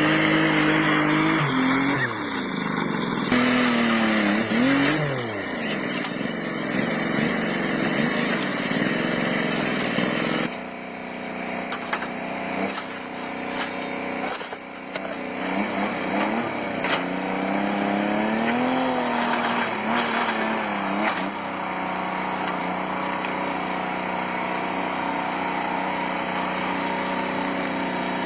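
A motor running, its pitch repeatedly dropping and rising again as if it is loaded and released, with abrupt changes about 2, 10 and 21 seconds in.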